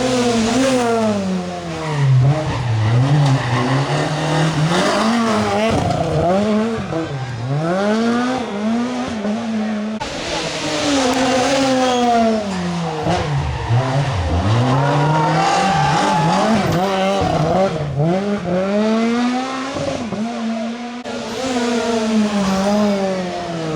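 Rally cars at full stage speed, their engines revving hard and falling away over and over as they brake, shift gear and accelerate through corners. Several passes follow one another with abrupt cuts between them.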